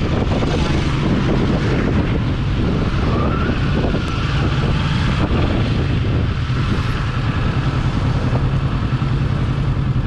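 Motorcycle engine running at a steady speed while riding, a continuous low hum with road and wind noise over it.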